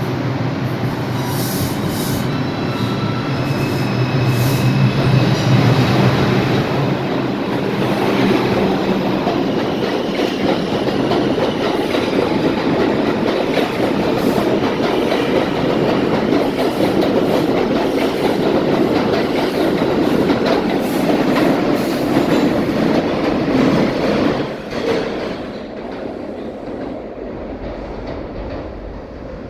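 R142 subway train pulling out of the station and running past, a loud continuous rumble of wheels on rail. A steady low hum sits under it for the first nine seconds or so. About 25 s in the noise drops and fades as the train leaves.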